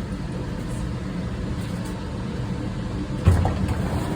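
Steady low rumble of a light rail car running, heard from inside the car, with one sudden low thump about three seconds in.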